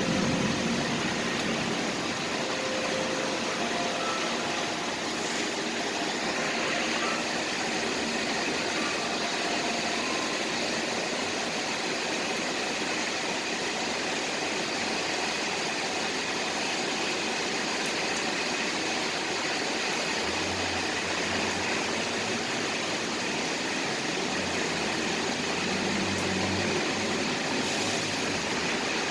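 Steady hiss of rain over the noise of city traffic, with a low rumble of passing vehicles coming and going in the second half.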